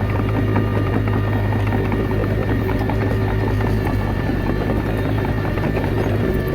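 Komatsu D21A bulldozer's diesel engine running steadily under load, with light clanking from the tracks and blade.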